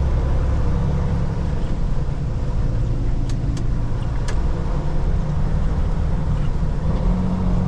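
Semi-truck engine and road noise heard inside the cab while driving, a steady low rumble. A few faint clicks come about midway.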